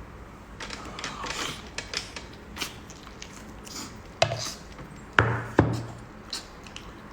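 A person eating seafood: scattered soft clicks, smacks and taps of chewing and handling food, with a few louder sharp knocks past the middle.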